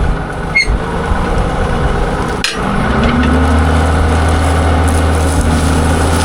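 Tractor engine running, speeding up about three seconds in, with a couple of sharp knocks and clanks in the first few seconds.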